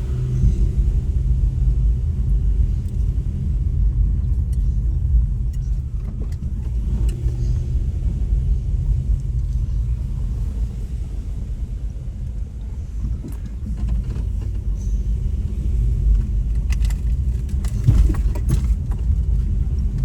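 A vehicle driving along a road: a steady low rumble of engine and tyres, with a few sharp knocks near the end.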